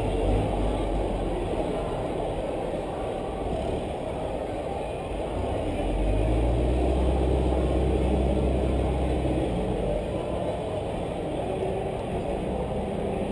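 Low, steady rumble of a vehicle engine running, heard from inside a caged race car. It swells about six seconds in and eases off again a few seconds later.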